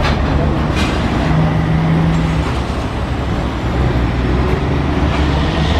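Road traffic with a heavy vehicle's engine running close by: a steady low rumble whose pitch rises briefly a second or two in, with a sharp click about a second in.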